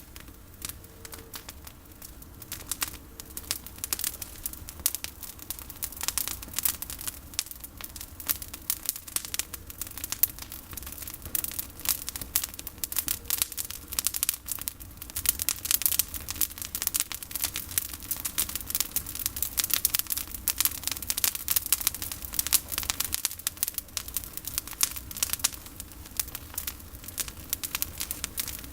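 Bonfire of pruned olive branches crackling, with dense, irregular snaps and pops throughout.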